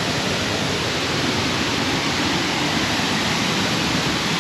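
Steady rush of a waterfall flowing strongly after rain, an even noise without breaks.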